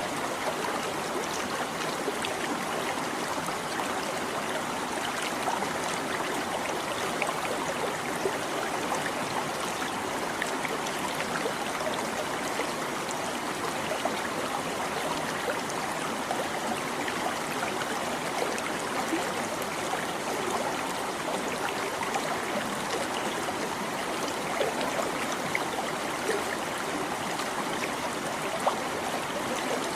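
A small stream babbling and trickling over stones, a steady, even rush of running water with tiny splashes throughout.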